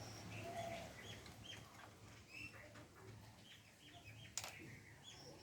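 Faint birds chirping in the background, in short repeated notes over a low hum, with one sharp click about four and a half seconds in.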